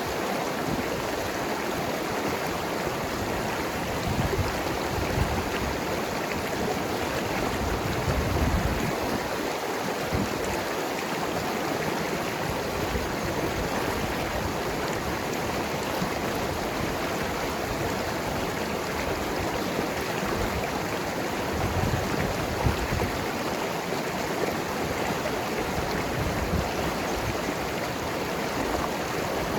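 Mountain river flowing over rocks: a steady rushing and gurgling of water, with irregular low surges.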